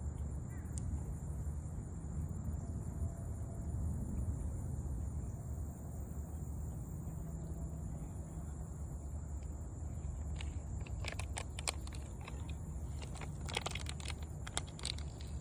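Outdoor ambience by a park lake: a steady low rumble with a thin steady high tone above it, and a scatter of short clicks and taps in the last few seconds.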